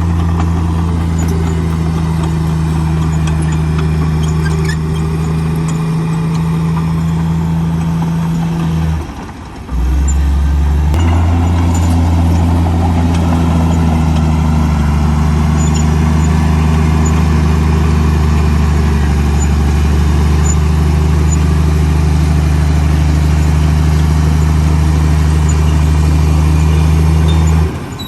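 Heavy earthmoving machine's diesel engine running steadily under load, with a deep, even drone. The sound dips briefly about nine seconds in, then carries on.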